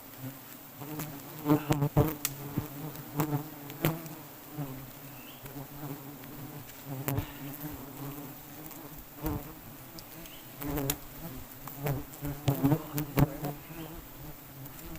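Wild honeybees buzzing in a swarm around their nest: a steady hum that swells louder now and then as bees pass close, broken by irregular sharp clicks and knocks.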